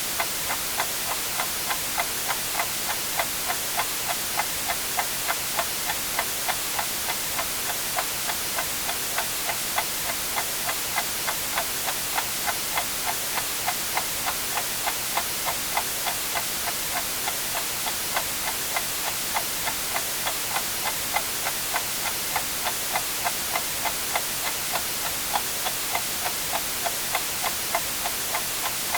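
A clock ticking evenly, about two ticks a second, over a steady white-noise hiss.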